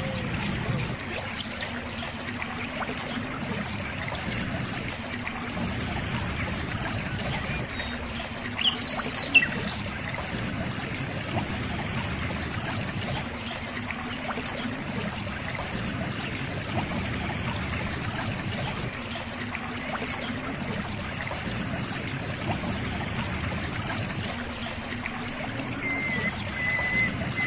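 Water of a stream trickling and gurgling steadily, with a bird giving a brief burst of quick high chirps about nine seconds in and a thin held note near the end.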